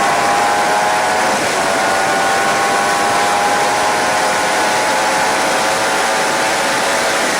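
Suzuki GSX-R 750 K7 inline-four engine pulling at high revs on track, heard through heavy wind rush on an onboard camera. The engine pitch steps down briefly about a second and a half in, then holds steady.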